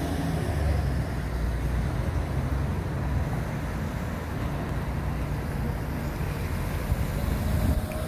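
Road traffic: steady noise of vehicles running, with the low hum of engines.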